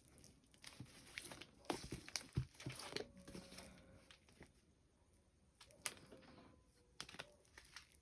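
Faint rustling and crinkling with light knocks and clicks, as books and their plastic packaging are handled, busiest in the first few seconds.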